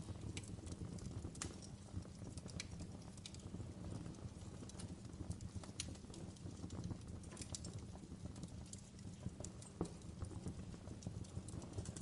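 Wood fire burning in a fireplace: a steady low rumble with frequent, irregular sharp crackles and pops, a few standing out louder than the rest.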